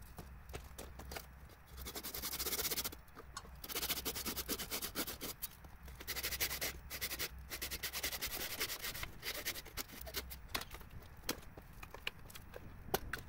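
Handwork noises: rubbing and scraping in stretches of a few seconds, with many small knocks and clicks throughout.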